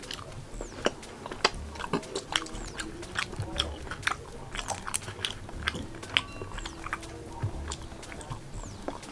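Close-up eating sounds: a person chewing, with many sharp, irregular wet mouth clicks and smacks.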